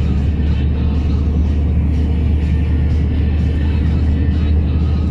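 Heavy truck loaded with stone, its engine droning steadily as it climbs a dirt road, with music playing over it.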